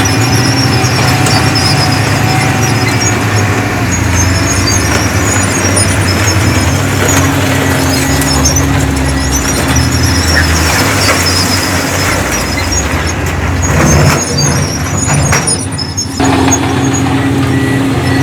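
Heavy diesel construction machinery running steadily under load, with high squeaks over the engine note. The sound thins out briefly near the end, then the engine hum comes straight back.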